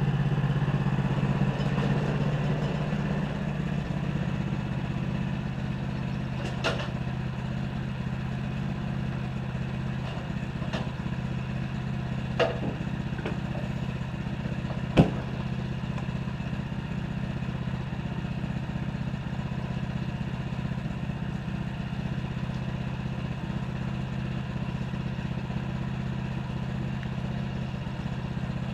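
Sawmill engine running steadily, with four sharp knocks over the run, the loudest about halfway through.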